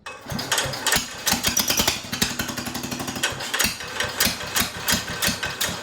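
Small tractor engine starts abruptly and runs with fast, somewhat uneven firing pulses.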